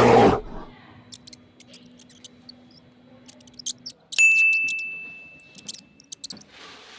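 The tail of a big cat's roar, cut off half a second in, then faint scattered ticks. About four seconds in comes a single sharp ding that rings on one high tone and fades away over about two seconds.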